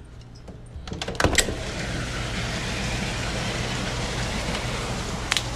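A sliding glass door is pulled open with a few clicks and knocks about a second in. A steady hiss of rain from outside follows.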